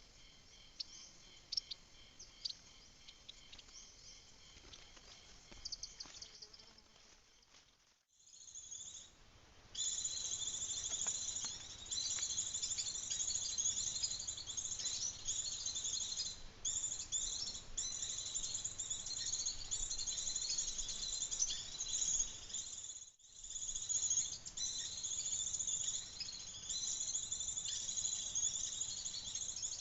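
Outdoor chorus of high-pitched bird chirps mixed with insect trilling. It is sparse and faint at first, then becomes dense and busy after a sudden cut about eight seconds in.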